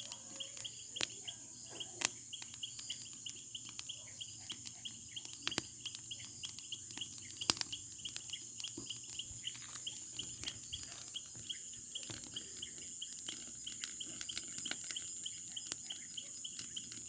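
Small bonfire crackling with irregular sharp pops, over a steady chorus of night-singing crickets: a continuous high trill and a fast, even chirping.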